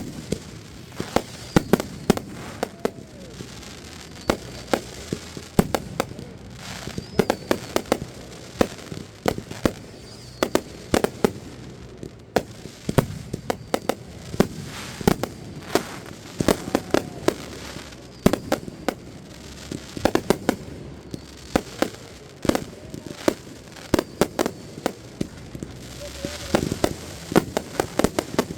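Fireworks going off: a steady string of sharp bangs and crackles, several a second, with an occasional short whistle.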